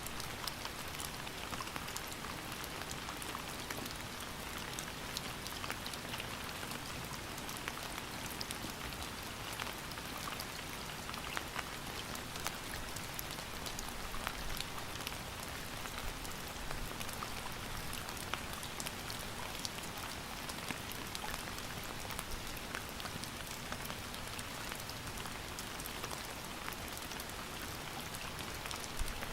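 Steady rain falling, a continuous hiss with many small drop ticks and patters.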